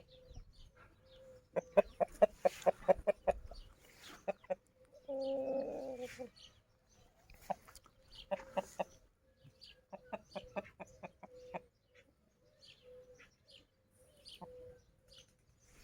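Chickens clucking in quick runs of short clucks, with one longer held call about five seconds in.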